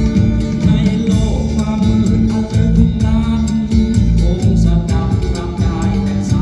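A song with singing, guitar and a steady drum beat played back loud through a competition car's audio system. One judge hears the voice, guitar and kick drum as off-pitch on this system.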